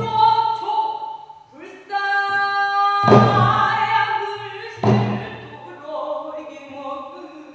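Pansori singing: a solo voice holding long, bending notes, with two strokes of the accompanying buk barrel drum about three and five seconds in.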